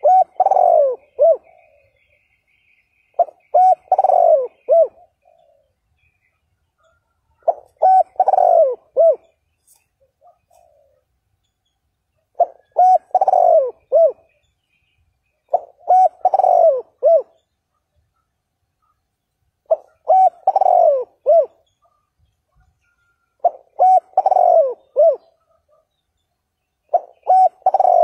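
Spotted dove cooing: a phrase of several low coo notes about every four seconds, repeated about eight times.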